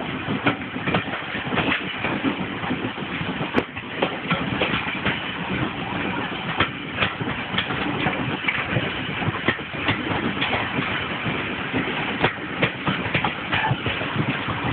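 Train running along the line, heard from on board through an open carriage window: a steady rumbling noise with frequent irregular clicks and knocks.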